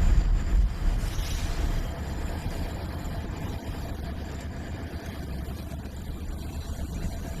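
Diesel locomotive engine running steadily. A heavier low rumble in the first two seconds drops away to an even, lower drone.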